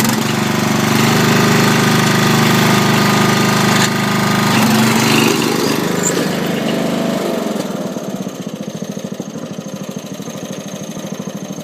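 Millermatic 135 MIG welder arc crackling and buzzing continuously while a steel patch is welded into a mower deck. It gets quieter and more fluttering about eight seconds in.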